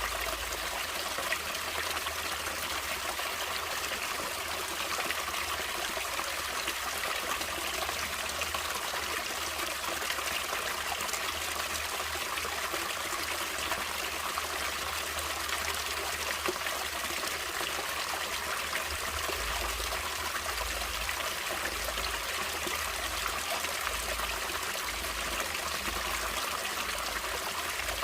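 Natural running water, a steady unbroken rush and trickle of a stream, with a faint low rumble coming and going underneath.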